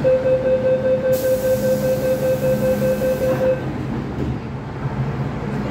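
MTR Tsuen Wan Line M-Train in motion, a steady low rumble throughout. A steady whining tone is heard from the start and stops about three and a half seconds in, overlapped by a high hiss for about two and a half seconds.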